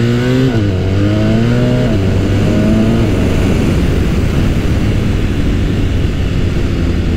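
BMW R1250RS boxer-twin engine pulling through the gears. Its pitch rises, drops at upshifts about half a second and two seconds in, and climbs again. After about three seconds it settles into steady cruising, mostly covered by wind and road noise.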